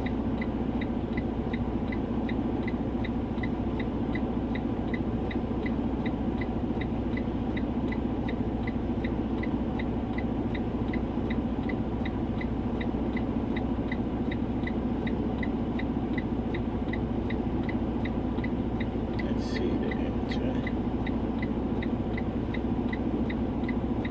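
Even, rapid high-pitched beeping, about three beeps a second, over a steady low hum, like a parked truck's warning chime sounding with the power on. Two brief clicks come about four-fifths of the way through.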